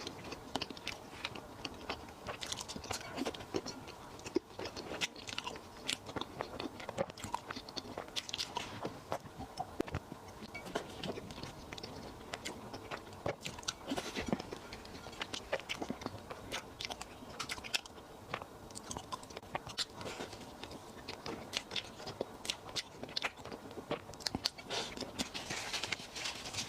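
Close-miked eating sounds: a person chewing and biting food, with many small crunches and wet clicks coming irregularly throughout.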